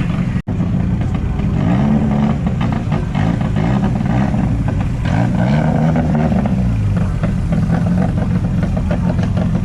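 Vehicle engines running with two revs that rise and fall in pitch, one about two seconds in and another around five to six seconds in. The sound drops out for an instant about half a second in.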